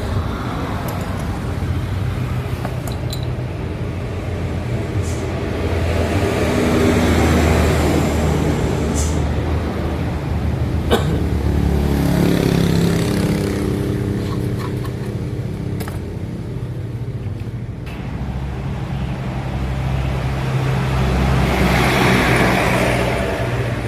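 Motor vehicles passing on the road, the engine noise swelling and fading several times over a steady low hum, with a few sharp clicks of metal parts being handled.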